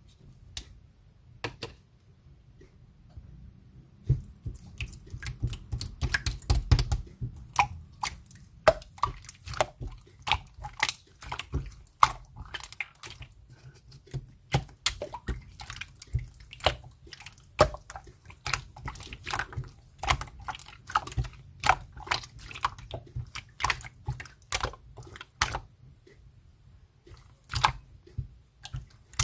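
Clear slime being squeezed and pressed by hand, making many sharp, irregular clicks and pops. It is nearly quiet for the first few seconds, the popping starts about four seconds in, and it pauses briefly near the end before picking up again.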